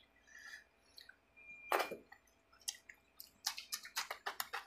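Close-up mouth sounds of a person eating fish curry by hand: wet chewing and lip smacks, with a quick run of smacks near the end.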